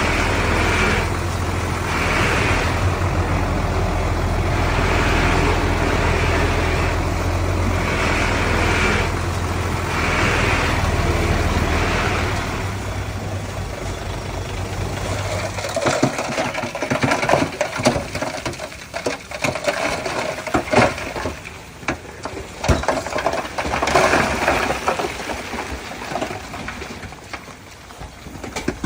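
Heavy diesel earthmoving machinery running steadily for about the first half. Then the engine drone drops away and irregular knocks and clatter take over.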